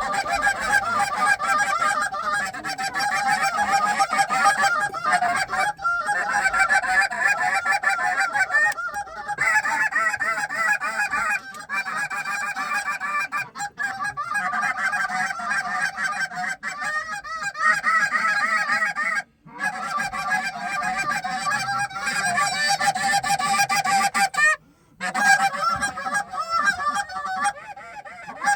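Canada goose honking and clucking, many calls overlapping without a break, from an incoming flock mixed with hunters blowing goose calls. It drops out briefly twice in the second half.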